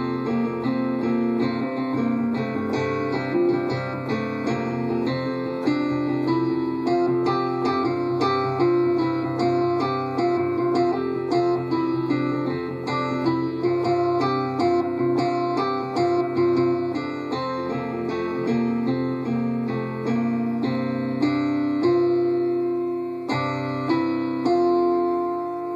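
Instrumental improvisation on keyboard: a quick, busy run of notes over steady low tones, with guitar in the mix. Near the end it settles into longer held notes and grows softer.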